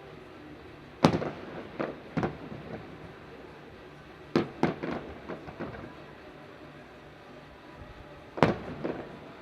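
Aerial firework shells bursting in sharp bangs, each with a rolling echo behind it: three close together about a second in, two near the middle, and one more near the end.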